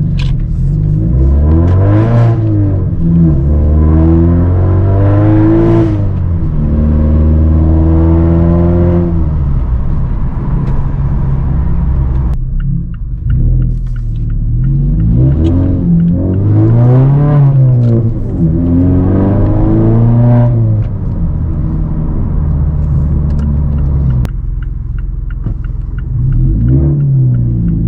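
2017 Mazda 3 GT's four-cylinder engine revved again and again through a Borla axle-back exhaust with the resonator deleted. The pitch rises and falls in repeated blips over a steady low drone.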